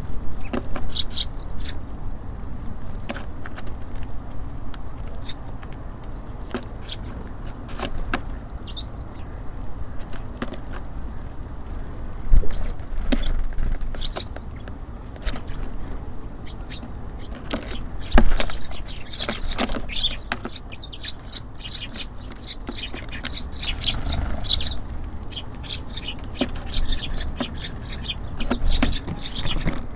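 Small birds at a feeder chirping in short, high calls, busier in the second half, over a steady low rumble of city traffic. Two sharp thumps stand out, about twelve and eighteen seconds in.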